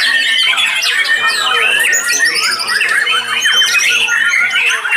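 Several white-rumped shamas (murai batu) singing at once in a contest, a loud, dense tangle of overlapping whistles, trills and rapid chattering phrases with no break.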